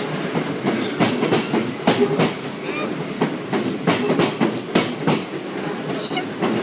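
Passenger train passing over a level crossing, its wheels clattering over the rail joints in an irregular run of knocks above a steady rumble. There is a brief high wheel squeal near the end.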